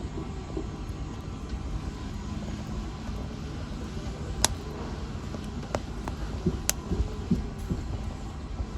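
Wood fire burning in a fireplace: a steady low rumble of flames with a few sharp crackling pops in the second half, the loudest about four and a half seconds in.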